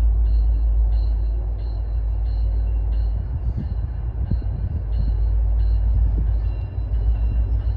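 Low rumble of an approaching train led by two EMD F40PH diesel locomotives. A bell rings steadily over it, a little under twice a second.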